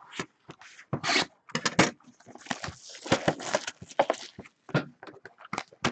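Trading cards and a foil pack wrapper being handled: a run of irregular scrapes, rustles and crinkles as cards are slid and sorted.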